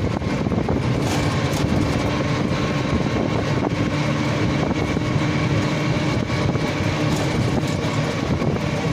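A vehicle's engine running with a steady drone.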